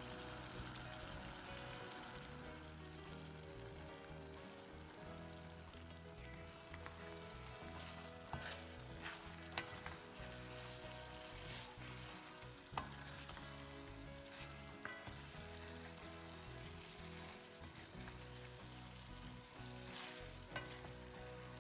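Chicken mince balls sizzling in masala in a stainless steel pan while a wooden spatula stirs them, with a few sharp knocks of the spatula against the pan.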